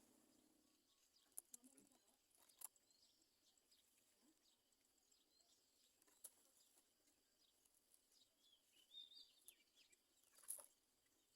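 Faint short chirps from birds at a nest, with a quick run of chirps about nine seconds in, and scattered sharp clicks and rustles.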